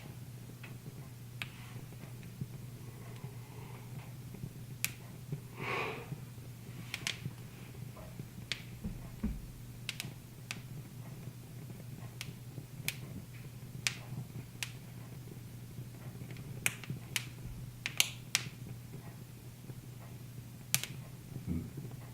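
Wood fire crackling: sharp, irregular pops and snaps, roughly one every second or so, over a steady low hum.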